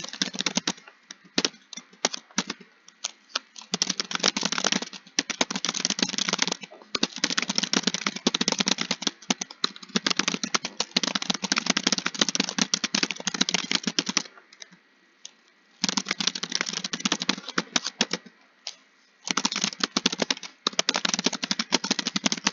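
Rapid typing on a computer keyboard, a fast run of key clicks that comes in bursts of several seconds with brief pauses between them.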